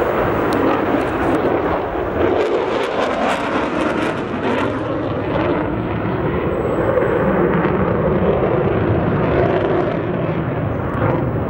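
Loud, sustained jet engine noise from a low-passing fighter jet, with sharp crackles through the first half.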